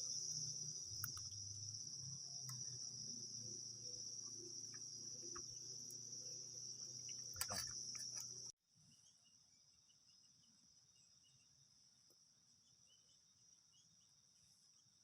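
Night insects trilling in a steady high chorus, with a low rumble and a few clicks beneath. About eight and a half seconds in the sound drops off abruptly, and the insect chorus goes on more faintly.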